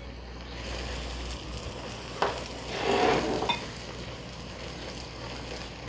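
Sliced onions and cumin seeds sizzling steadily in hot oil in a nonstick pot while a silicone spatula stirs them. A light tap comes about two seconds in, and the sizzling swells louder for about a second as the mixture is stirred around three seconds in.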